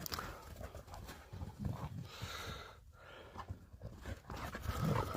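A dog panting during rough play with another dog.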